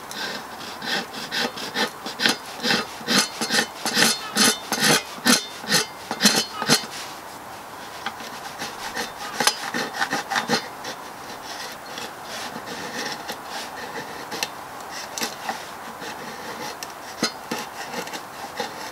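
Bushcraft knife blade scraping fine shavings off resinous pallet wood, in quick repeated strokes about two a second. The strokes are strong for the first several seconds, then come more sparsely and faintly.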